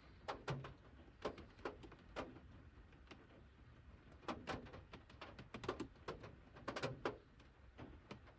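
Computer keys being pressed: a string of faint, irregular clicks.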